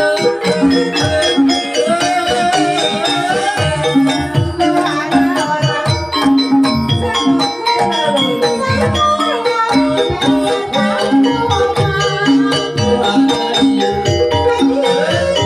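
Live gamelan music accompanying an ebeg horse-trance dance. Percussion keeps a steady, dense rhythm under repeating low notes, with a wavering melodic line above.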